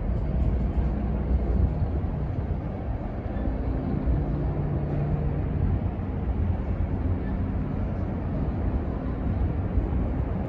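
Coal hopper cars of a freight train rolling past, a steady low rumble of steel wheels on rail with light clicks from the wheels and couplers.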